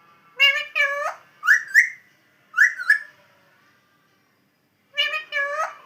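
Pet parrot giving short, chirpy whistled calls with sharply rising pitch, in three quick groups, then a pause of about two seconds before another group near the end.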